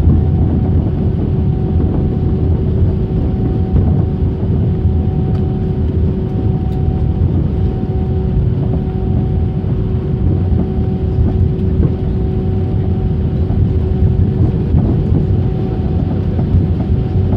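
Steady airliner cabin noise: a deep rumble of the aircraft's engines and rolling with a constant hum tone over it, heard from inside the passenger cabin.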